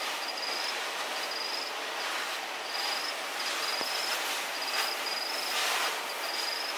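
An insect calling in short, high-pitched trills about once a second over a steady hiss, with a few brief rustles.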